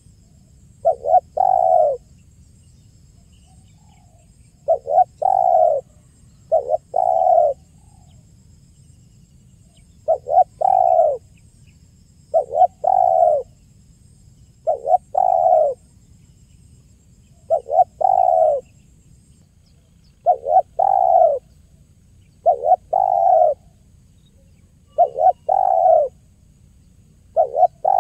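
Spotted dove (tekukur) cooing in the 'kuk 1' song style: the same short phrase of two quick notes and a longer note, repeated about every two seconds.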